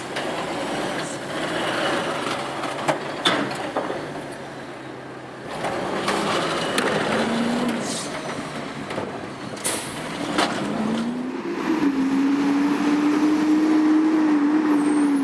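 Autocar garbage truck's diesel engine floored in gear while pulling away between stops: the revs rise briefly, then climb steeply about two-thirds of the way in and hold high, loud. A few short hisses earlier on.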